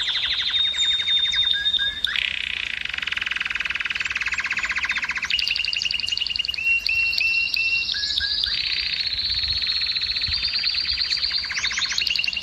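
Male domestic canary singing a continuous song of rapid trills that switch to a new pattern every one to three seconds, mixed with short repeated chirping notes and a held whistle.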